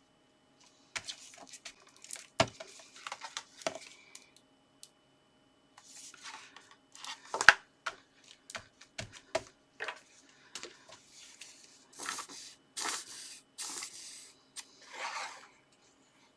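Paper and card being handled at a craft table: scattered taps and rustles, then a string of short tearing sounds in the last few seconds.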